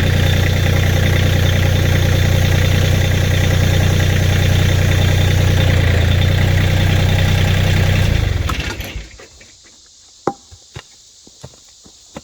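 An engine running steadily at a constant speed, then shut off about eight seconds in, after which only light scattered taps and footsteps remain.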